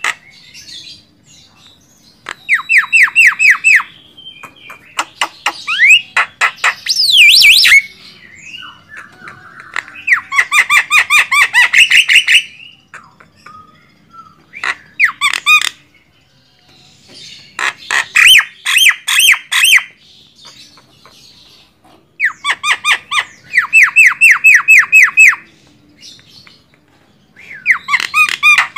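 Javan myna calling loudly in repeated bursts of a second or two. Each burst is a rapid run of harsh, chattering notes, about six to eight a second. Near the start there is a rising whistle mixed into the chatter.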